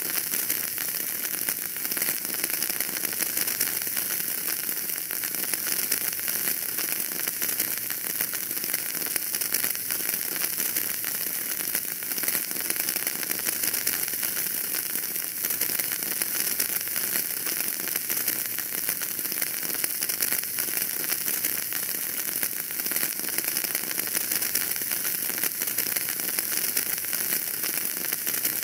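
Wood fire burning in a fireplace, crackling steadily with a dense run of small pops and a hiss.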